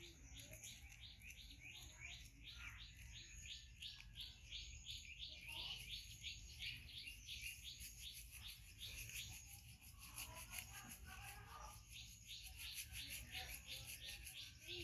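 Quiet background with a small bird chirping over and over, short high chirps about three a second, and a faint low voice now and then.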